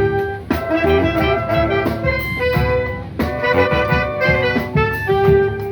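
A band playing upbeat music, with brass and saxophone carrying the melody over a steady drum beat.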